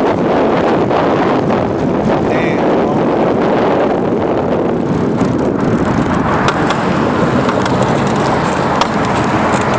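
Wind rushing over the microphone of a bicycle in motion, a steady loud noise, with tyre and road noise beneath it.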